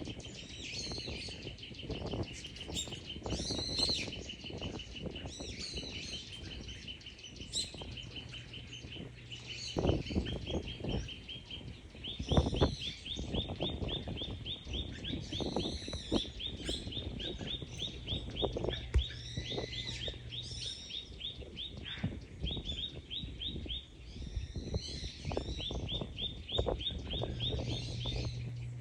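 Small wild birds calling and singing. One keeps up a long, fast trill of repeated high notes while others add short high chirps, over a low background rumble.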